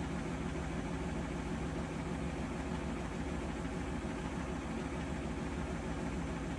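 Bosch Serie 4 washing machine running with a steady low rumble and hum, without pauses.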